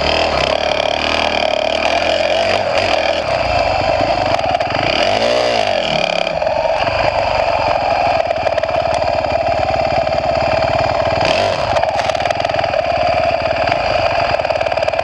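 A motor engine running steadily and loud, close to the microphone, with a brief rise and fall in pitch about five seconds in.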